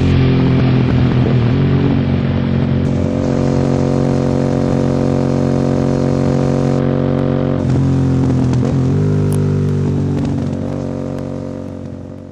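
Sport motorcycle engine running at a steady speed, its pitch shifting a few times, then fading out at the end.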